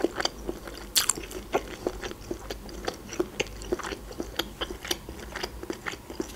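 Close-up chewing of raw red bell pepper: crisp, wet crunches and mouth clicks, a few a second, the sharpest about a second in.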